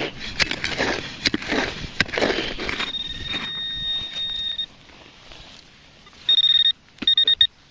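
A shovel scraping and digging in sandy soil, followed by a metal detecting pinpointer sounding a steady high tone. Near the end the tone comes back loud and breaks into rapid beeps, the sign of a metal target close to the probe in the hole.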